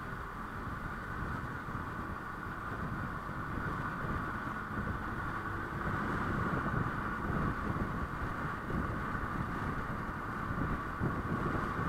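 Honda Click 125i scooter's single-cylinder engine running under way, with wind buffeting the microphone; the rumble grows a little louder about halfway through.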